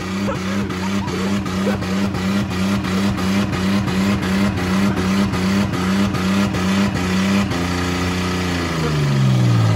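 Car engine held at full revs on its rev limiter by a brick on the gas pedal, the limiter cutting the power nearly three times a second. About three-quarters of the way in the bouncing stops and the revs sink steadily as the overheated engine, run with water in its oil, dies and seizes.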